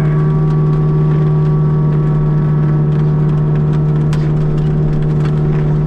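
Kubota U55-4 mini excavator running with its forestry mulcher head spinning: a loud, steady drone held at one pitch, with scattered light ticks over it.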